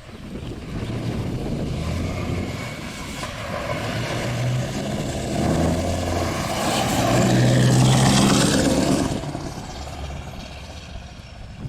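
Scania R520 V8 truck running on an open exhaust pipe, its engine note shifting pitch in steps as it drives by. It grows louder, is loudest about eight seconds in, then fades.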